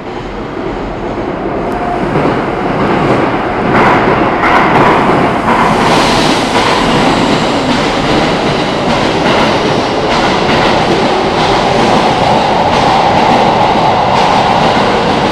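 Keikyu 600-series eight-car train running into a station platform and slowing. It grows louder over the first few seconds as the cars come alongside, and a steady whine holds through the last few seconds.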